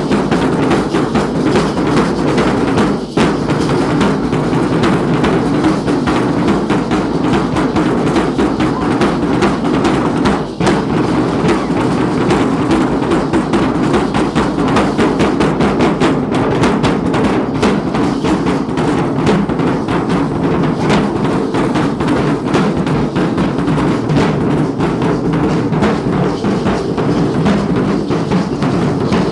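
Drums of a Guadalupana dance group beating a fast, continuous rhythm with dense, closely packed strokes.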